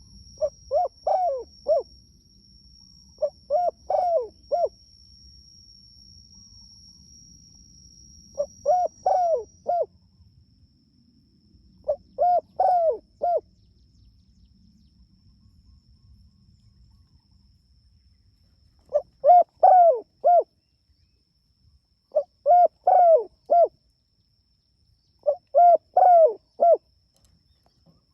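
Spotted dove (tekukur) cooing: seven phrases of four or five short, bending notes each, repeated every few seconds. A faint steady high-pitched whine runs through the first third.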